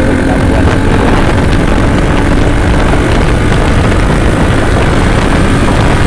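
Loud, steady wind rumble buffeting the microphone on a moving motorcycle, with the engine running beneath it.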